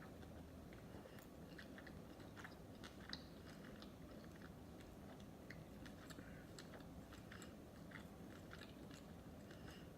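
Close-up chewing of sushi: soft, wet mouth clicks and small crunches in an irregular run, with a faint steady background hum.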